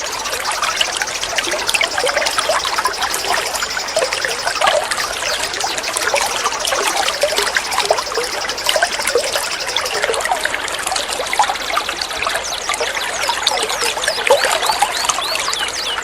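Water trickling and babbling steadily, with a mix of songbirds chirping and whistling over it. A rapid, high buzzy trill runs through the first part and stops about ten seconds in.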